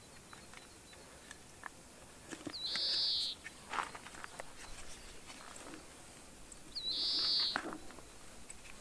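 A bird calls twice, about four seconds apart, each call a short upward slide running into a dense, high trill about half a second long. Faint clicks and rustles of handling come between.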